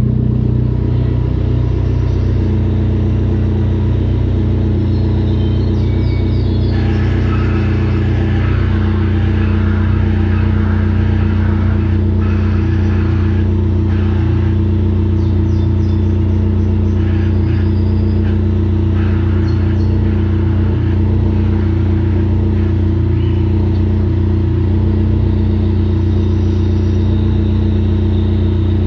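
Dodge SRT-4's turbocharged 2.4-litre four-cylinder idling cold, with the morning start-up noise that stops when the clutch pedal is pressed, traced to the clutch release (throwout) bearing. A rougher, rattly layer comes in about seven seconds in and comes and goes through the middle.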